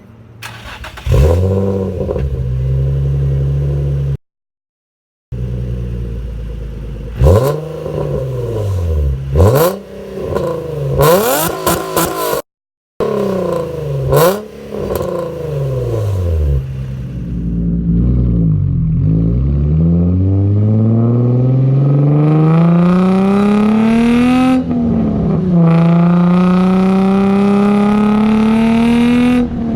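Nissan 350Z's V6 breathing through a Concept Z Performance true-dual cat-back with ISR test pipes, a little raspy. It starts about a second in, idles, and is blipped in a few quick revs, then pulls hard under acceleration with its pitch climbing steadily, dropping at an upshift near the end and climbing again.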